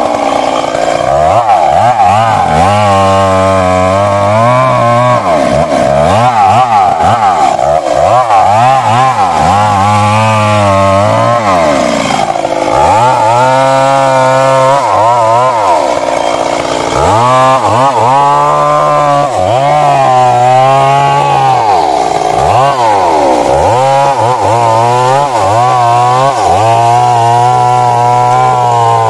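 Stihl MS 382 two-stroke chainsaw cutting into a big old tree, running at high revs throughout, its engine pitch repeatedly dropping as the chain bogs in the wood and rising again as it frees.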